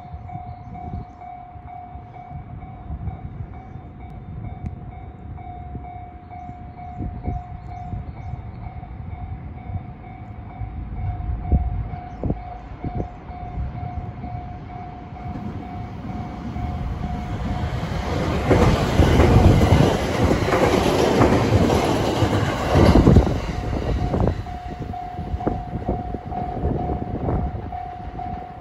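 Japanese level crossing alarm ringing steadily while a 521 series electric multiple unit, two coupled two-car sets, approaches and passes, its wheels clattering over the rail joints. The train is loudest from about two-thirds of the way in and drowns out the alarm, which is heard again as the train runs off.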